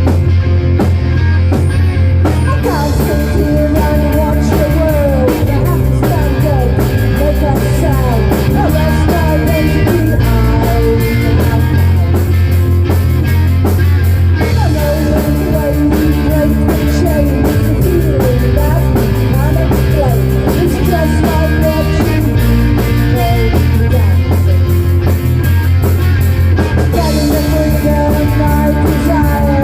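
Rock song with vocals, electric guitar, bass and drum kit, at a steady beat.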